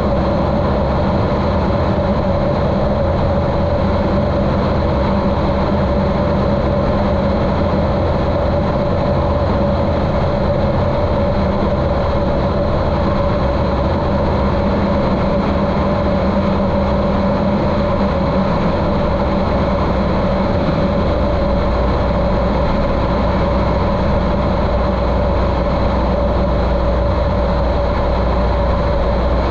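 A 1973 Cessna 150L's Continental O-200 engine and propeller running steadily in flight, a continuous drone muffled by the camera's waterproof housing. The lowest part of the drone grows a little stronger about two-thirds of the way through.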